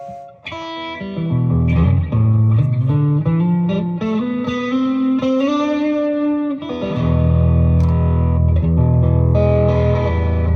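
Electric guitar played through effects: a phrase of picked notes with a long held note in the middle, then a low, full chord ringing on from about seven seconds in.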